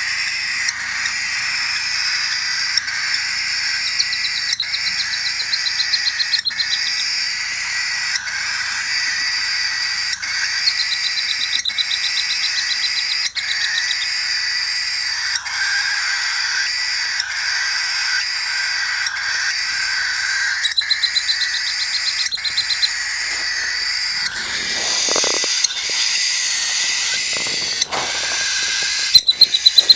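Cockatiels calling in rapid buzzy pulse trains, four bursts of two to three seconds each, over a steady hiss.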